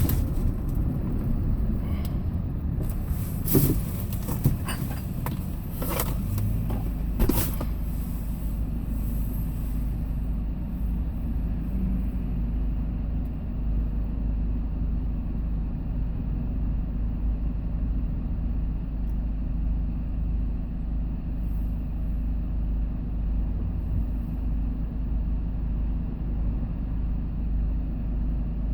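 Hyundai Porter II box truck on the move: a steady low engine and road rumble, with a few sharp knocks between about three and eight seconds in.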